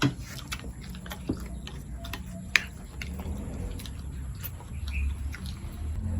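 Eating sounds: scattered small clicks and taps of chewing and handling food and dishes, with one sharp click about two and a half seconds in, over a low background rumble.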